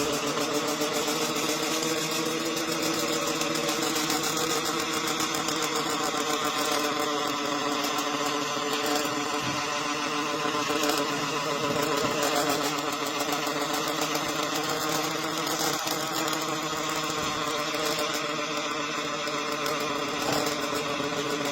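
Welding robot machinery running with a steady, even mechanical drone that holds the same pitch throughout.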